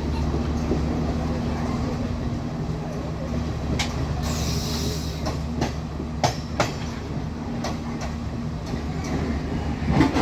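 Class S12 diesel multiple unit running, heard from its open doorway: a steady low diesel drone over rolling wheel rumble. Several sharp clicks come in the middle as the wheels pass over rail joints, with a brief hiss about four seconds in.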